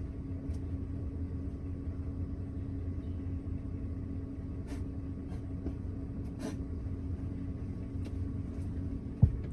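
Car idling with a steady low rumble and hum, a few faint ticks over it, and a single thump near the end.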